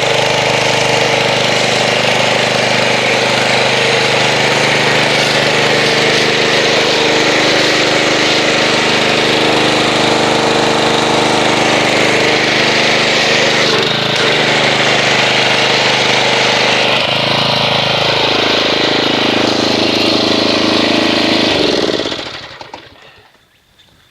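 Pressure washer motor and pump running while spraying foam through a foam cannon, with a steady spray hiss and brief dips in pitch about two thirds of the way through. Near the end it winds down and stops as the trigger is released.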